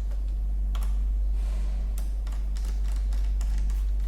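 Irregular small clicks and ticks of a screwdriver turning screws into the plastic base of a Dell Vostro 15 3546 laptop, over a steady low hum.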